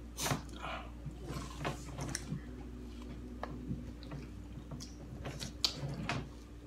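Biting and chewing corn on the cob coated in mayonnaise, butter and crushed Takis: a run of short crunches and mouth sounds over a steady low hum.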